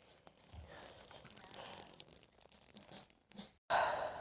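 Irregular crunching and scraping in loose dirt and sand, with a louder rustle near the end.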